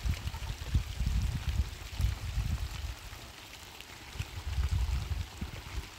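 Rain pattering steadily, with gusts of wind rumbling on the microphone, strongest in the first half and again near the end.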